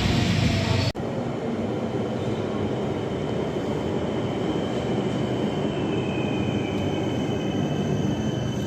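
Passenger train moving through the station: a steady rolling noise carrying a thin, high-pitched wheel squeal, one squeal tone sliding lower near the end. The sound breaks off abruptly about a second in before the rolling noise takes over.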